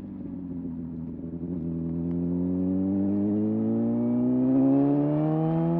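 Motorcycle engine pulling through one gear under gentle throttle, its note dipping slightly and then climbing slowly and steadily as the bike accelerates.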